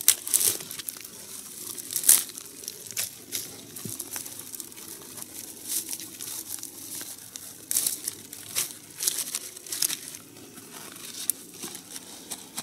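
Thin dry twigs snapping one after another as they are broken by hand for fire kindling, with branches rustling between the snaps.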